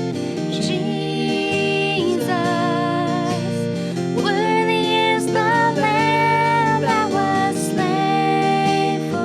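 Praise band playing a worship song: acoustic guitar under a voice singing long held notes.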